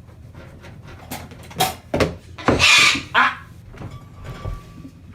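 A pet bird giving a few short, harsh calls, the longest and loudest about two and a half seconds in.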